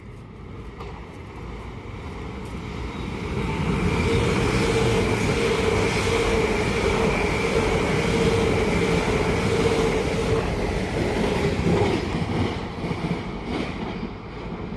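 A train passing: it grows louder over about four seconds, goes by with a steady rumble and a pair of steady whining tones, and fades over the last few seconds.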